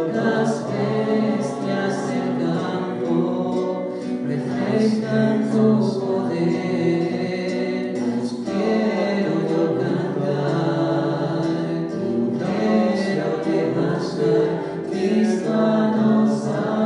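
Group of voices singing a Christian worship song, choir-style, without a break.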